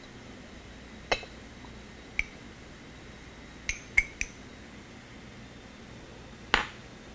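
A coffee mug clinking and knocking against a plate as a mug brownie is turned out of it: six sharp, irregularly spaced clinks, three of them close together midway and the loudest near the end with a short ring.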